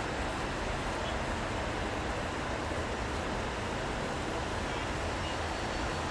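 Steady city street ambience in the rain: a constant wash of traffic noise over a low rumble, with no distinct events standing out.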